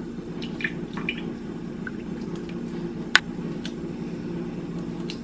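Cookie dough being mixed by hand in a bowl: wet, squishy stirring with scattered light clicks of the utensil against the bowl, one sharper click about three seconds in, over a steady low hum.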